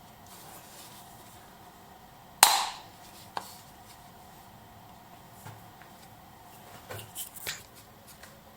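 A single sharp knock about two and a half seconds in, then a lighter click a second later and a few soft taps near the end, over faint room tone.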